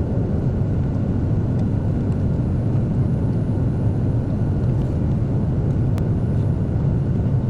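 Steady low drone of cabin noise inside a Boeing 757-200 on the ground, with a faint high steady whine above it.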